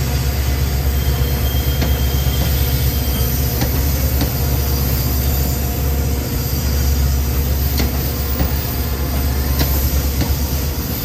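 Train rolling past close by: a steady heavy rumble, with scattered clicks of the wheels over the rail joints.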